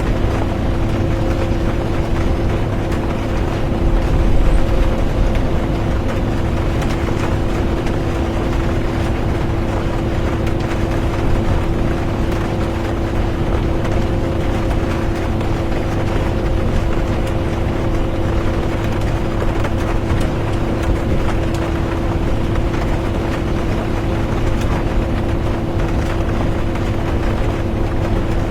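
Interior of a bus driving in rain: a steady engine drone with a held hum over low road rumble, and rain on the bus body and windows. The sound swells briefly about four seconds in and is otherwise constant.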